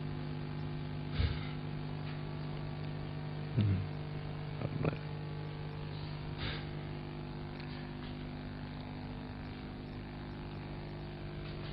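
Steady electrical mains hum, with a few faint short noises about a second in, around four to five seconds in, and near six and a half seconds in.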